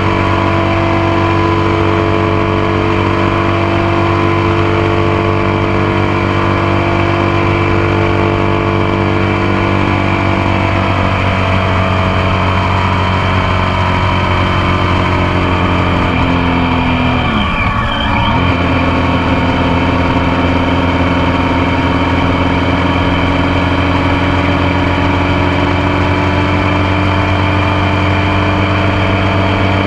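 Motorcycle engine running steadily at road speed, heard close up from the foot peg. About two-thirds of the way through, the engine note dips briefly and picks up again, as on a gear change.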